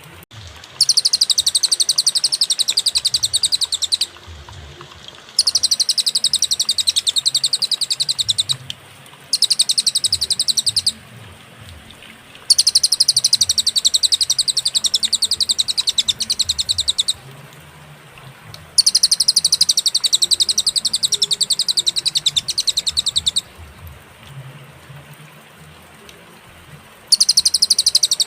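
A cililin songbird singing in bursts of very rapid, high trilled notes, each burst lasting a few seconds, with short pauses between them.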